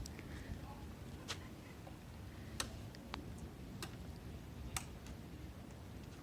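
A handful of sharp, irregularly spaced clicks over a faint low rumble.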